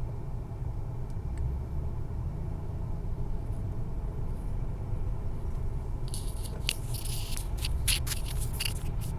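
Motorcycle engine running with a steady low rumble. From about six seconds in, a series of sharp scraping and crackling noises is added.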